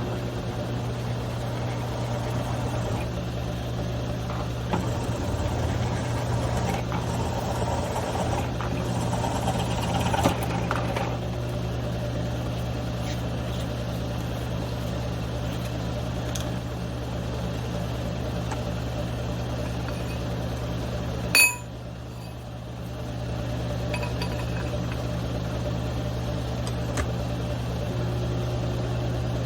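Milling machine motor running with a steady hum while a drill bit cuts holes in steel, the cutting noise rougher for several seconds, with a sharp click about twenty-one seconds in.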